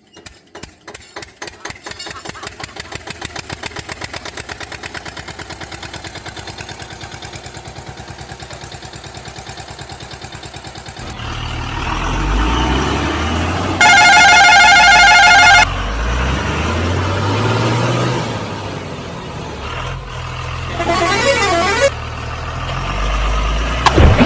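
Truck engine sounds: rapid pulses that speed up over the first ten seconds, then steadier running, with a very loud warbling horn blast lasting about two seconds midway and a shorter warbling tone near the end.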